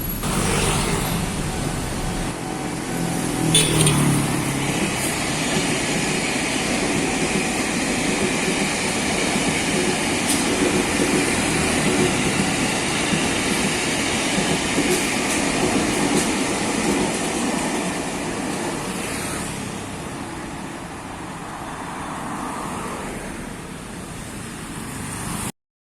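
KRL electric commuter train running past at a level crossing: a steady rumble of wheels on rail with a few sharp knocks, the loudest about three and a half seconds in. It fades away from about two-thirds of the way through, then cuts off suddenly just before the end.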